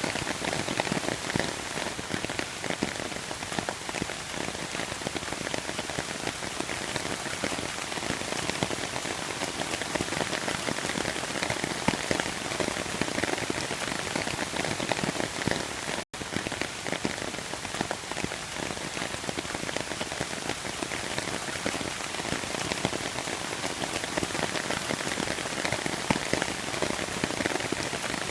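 Steady rain falling and pattering on surfaces, a dense even hiss of many drops, broken by a split-second silent gap about halfway through.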